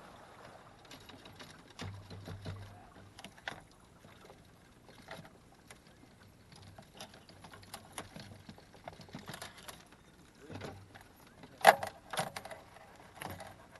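Scattered knocks and clicks from fishing gear being handled in a jon boat, with a couple of dull low thumps. The loudest sound is one sharp, ringing knock about two seconds before the end.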